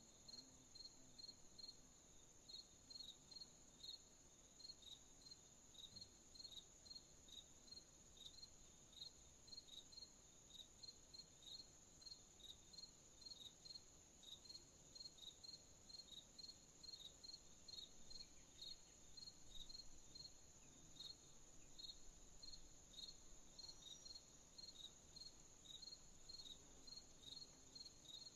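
Crickets chirping at night, faint: a steady high trill with short chirps repeating about twice a second.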